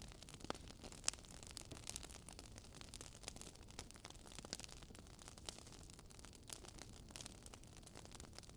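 Campfire crackling: faint, irregular pops and snaps of burning wood over a soft steady hiss.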